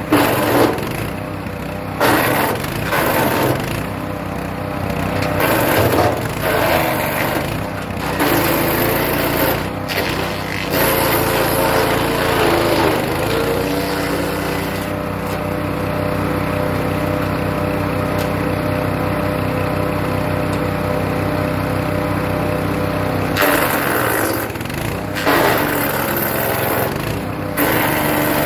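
Hecht 6208 petrol wood chipper running, with birch branches being shredded in loud, ragged bursts through the first half and again near the end. In between, the engine dips briefly in pitch, then runs steady without load.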